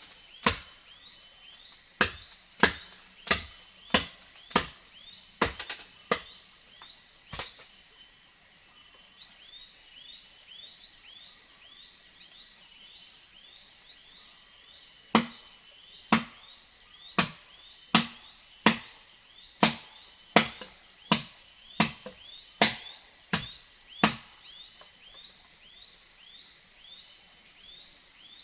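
Wood being chopped with a blade, sharp strokes about one and a half a second in two runs with a pause of about eight seconds between them. Under it, a steady high insect drone and quick repeated rising chirps.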